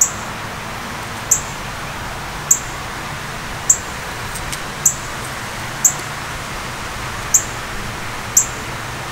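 A bird repeating a single short, high chirp roughly once a second over a steady background hiss.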